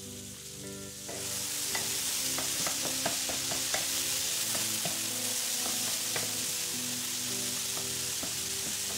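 Chicken sausage, diced onion and apple sizzling in a hot frying pan, the sizzle coming up about a second in, while a wooden spoon stirs them with small clicks and scrapes against the pan.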